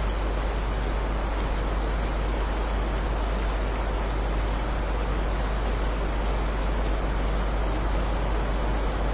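Steady heavy rain: an even, unbroken hiss with a deep rumble underneath.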